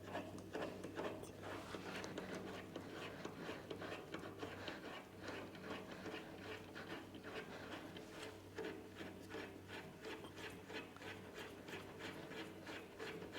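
Faint rhythmic ticking and rubbing, about three to four strokes a second, as a mini lathe's slide is cranked by hand along its freshly greased and oiled dovetail ways and gib. A steady low hum runs underneath.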